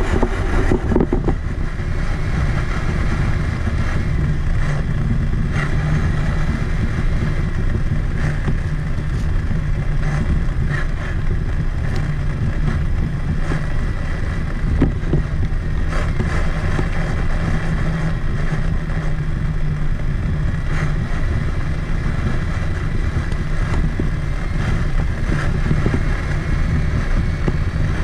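Traxxas Summit 1/10-scale electric RC truck driving, heard from a camera mounted on its body: a steady, loud rumble of chassis vibration and driving noise with a faint whine from the electric motor and drivetrain.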